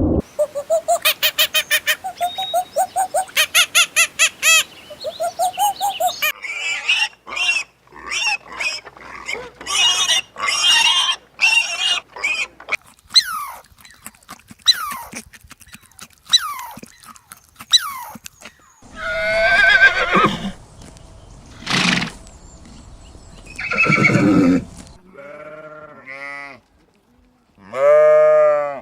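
Farm animals calling in a run of short clips: a rapid string of short repeated calls for the first six seconds, then scattered calls, and several longer wavering pitched calls in the second half.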